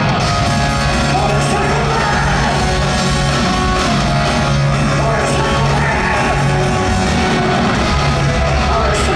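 Heavy metal band playing live and loud in a large hall, with a sung vocal line over guitars, bass and drums.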